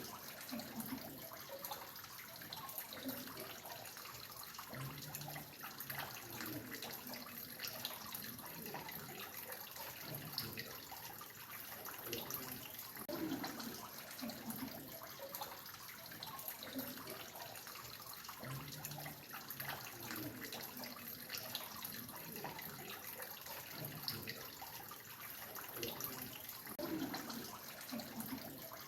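Water dripping and trickling steadily, with many small drops ticking throughout.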